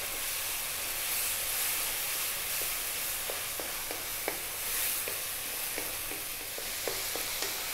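Onion, tomato and tomato paste sizzling on high heat in a non-stick wok while the paste cooks out, with scattered light scrapes and taps of a wooden spatula stirring it.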